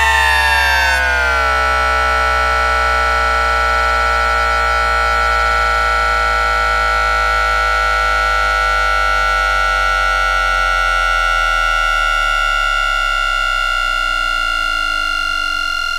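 Alstom Citadis 302 tram's IGBT-VVVF traction inverter picked up through an induction coil: a steady electronic whine from the carrier frequency near 1.4 kHz. Around it, a cluster of tones glides down over the first second and a half, then drifts slowly, with a low hum fading out near the end.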